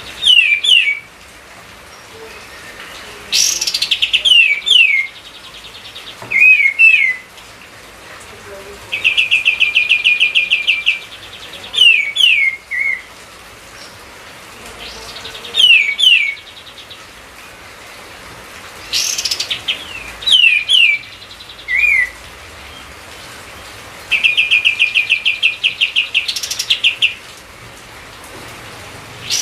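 Kapas tembak bird singing: phrases of quick, loud downslurred whistles alternating with fast, even rattling trills about two seconds long, the same pattern coming round again every several seconds. It is a lure recording meant to draw and excite other birds of its kind.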